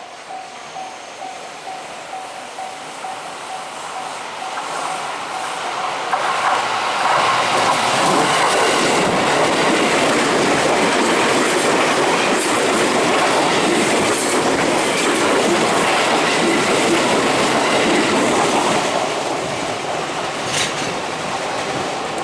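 Level-crossing bell ringing in a quick repeating ding. An electric commuter train then approaches and passes over the crossing: a building rush of wheels on rail with clickety-clack over the rail joints, loudest for about ten seconds in the middle, then fading.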